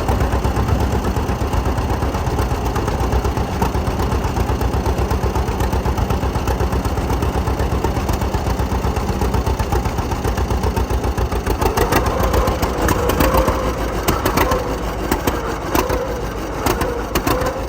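1937 John Deere AR tractor's two-cylinder engine running with a steady pulsing beat. About two-thirds of the way through, a higher tone and sharp clicks join in.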